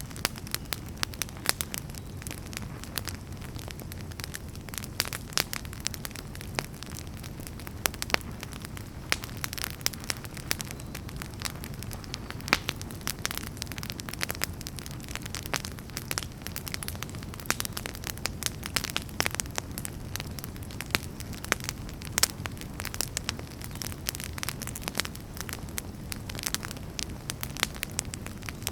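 Wood fire burning in a fireplace: a steady low rumble of flames under frequent irregular crackles and pops.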